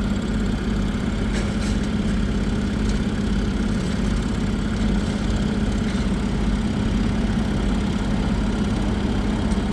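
An engine running steadily at idle, with a constant low hum that does not change.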